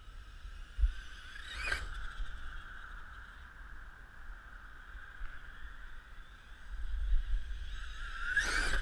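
Electric RC monster truck running, a steady high whine with two short sharp bursts as the throttle is punched, about two seconds in and again near the end.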